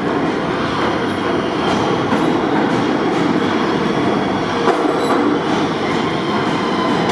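R211 subway train running into the station: a steady rumble of the train, with sharp wheel clicks over the rail joints.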